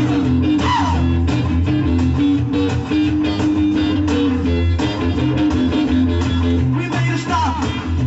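1950s rockabilly recording: an instrumental passage of electric guitar over a driving bass line, with no singing.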